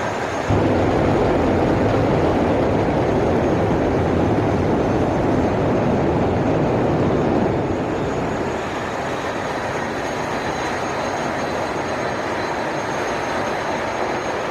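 Jet truck's jet engine roaring steadily with a faint high whine; it gets louder about half a second in and eases back down about halfway through.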